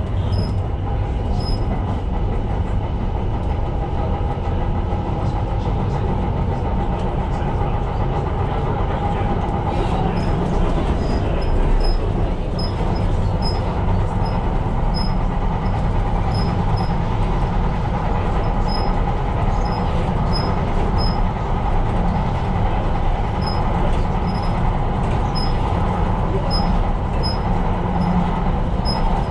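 Tyne & Wear Metrocar running along the line, heard from inside the car: a steady rumble of wheels and traction, with faint high ticks repeating irregularly from about ten seconds in.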